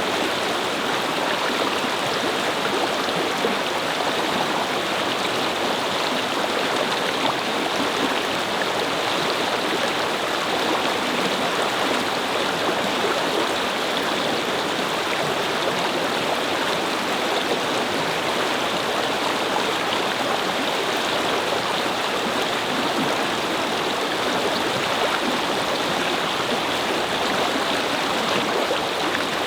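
A brook babbling over stones, a steady, even rush of flowing water.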